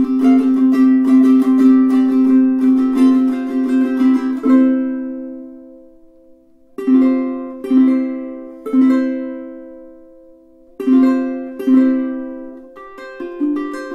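aNueNue UT5K solid koa tenor ukulele played solo: fast strumming that stops about four and a half seconds in and is left to ring out, then single chords struck about a second apart and allowed to ring, then lighter, quicker strumming near the end.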